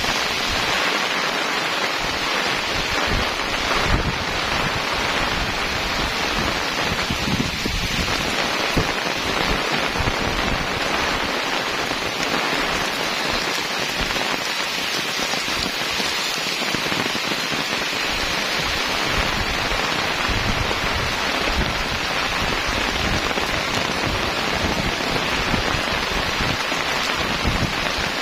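Heavy rain pouring steadily, a dense even hiss, with uneven low rumbles from strong wind buffeting the microphone.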